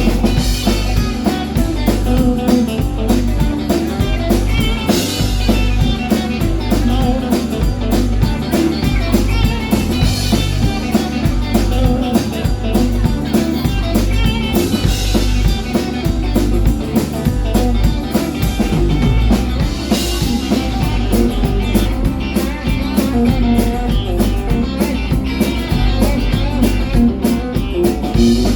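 Live rock band playing an instrumental break: guitar, bass and drum kit, with no singing.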